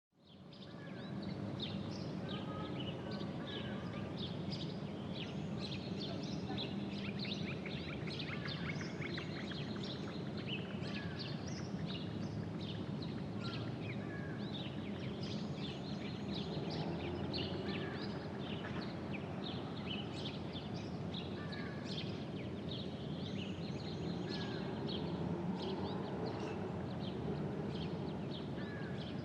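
Outdoor ambience sound effect: many birds chirping over a steady low background noise, fading in at the start.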